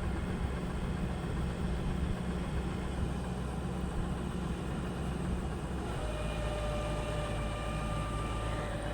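Steady low engine-like hum. About six seconds in, a flat steady tone joins it and holds.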